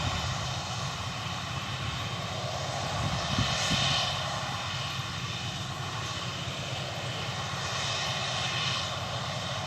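Claas Lexion 660 combine harvester running at work, a steady droning hum with a faint whine that swells slightly a few seconds in and again near the end.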